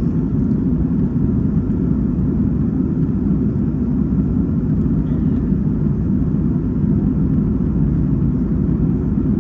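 Steady low cabin noise of an Airbus A330 in flight, engines and airflow heard from a passenger seat inside the cabin.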